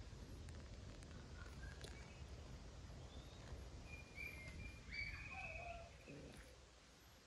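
Faint, steady low background rumble, with a few short bird chirps about four to five seconds in.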